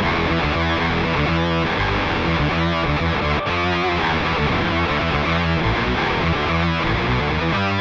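Heavily distorted electric guitar riffing through a Line 6 Pod Go's high-gain Diezel amp model, with an octave-down pitch effect doubling each note an octave lower so it sounds as if a bass were playing along.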